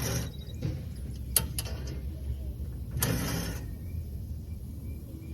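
Metal parts of an air-conditioning unit being worked by hand during a teardown: a noisy scrape at the start, two sharp clicks about a second and a half in, and a longer scraping rasp about three seconds in, over a steady low rumble.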